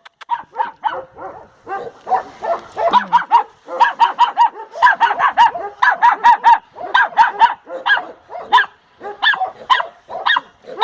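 A dog barking in rapid, nonstop runs of sharp barks, about four or five a second, with only brief breaks: warning barking at a person.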